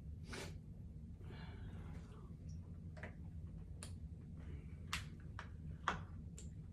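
Faint kitchen handling sounds: about seven light clicks and taps, the loudest near the end, and a short soft rustle about a second in, over a steady low hum.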